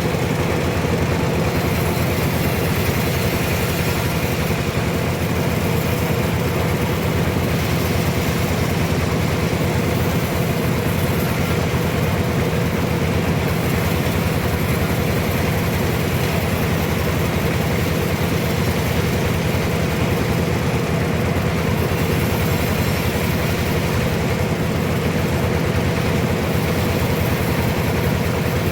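Sawmill machinery running steadily, a heavy engine drone with an even hum that does not change.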